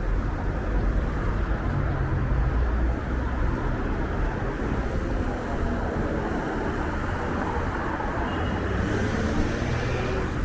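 Strong wind buffeting the microphone, a heavy uneven rumble, over steady street traffic noise.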